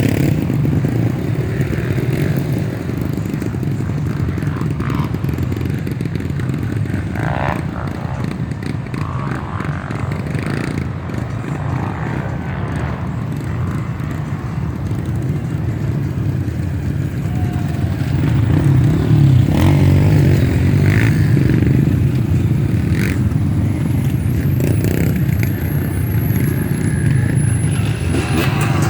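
Off-road motorcycle engines running, getting louder about two-thirds of the way through.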